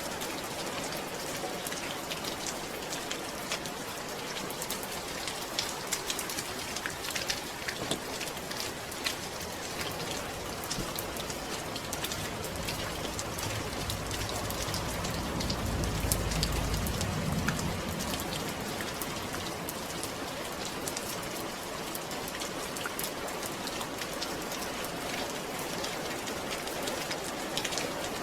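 Steady rain pattering, with many fine drop ticks over an even hiss. A low rumble swells and fades about halfway through.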